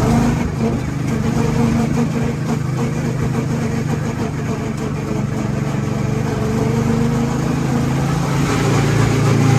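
Go-kart's small petrol engine running at a fairly steady speed, its pitch drifting only slightly.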